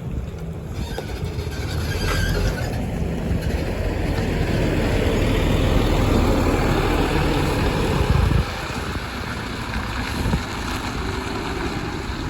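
Marcopolo Paradiso G6 1800 DD double-decker coach's diesel engine running as the bus moves, a low rumble that grows louder over the first several seconds and falls off suddenly about eight seconds in.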